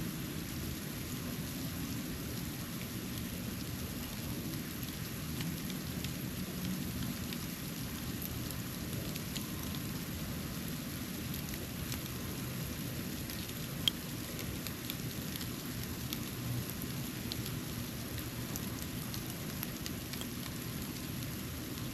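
Snow falling on a porch: a steady soft hiss with scattered faint ticks of flakes landing, and one sharper tick about two-thirds of the way through, over a steady low rumble.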